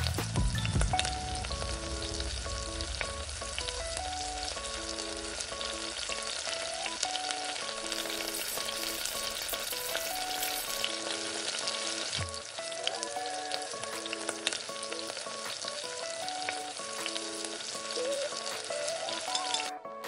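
Stuffed okra frying in oil in a nonstick pan: a steady sizzle with scattered small clicks of stirring. Soft background music with gentle notes plays underneath.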